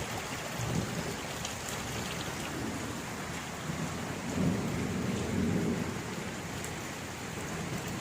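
Steady rain falling, with a low rumble of thunder swelling about four seconds in and fading by about six seconds.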